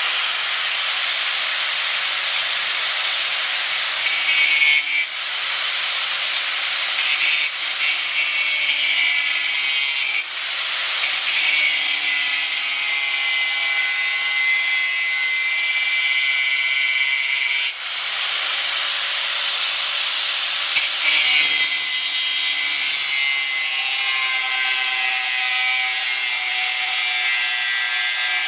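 Electric power tool working steel plate, running steadily under load, its pitch drifting as the load changes, with brief shifts in the sound a few times.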